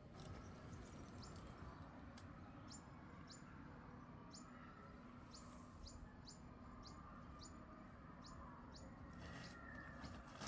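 A small bird giving a faint series of about ten short, high chirps, each sliding quickly down in pitch, repeated irregularly one to two times a second over a steady low background hiss.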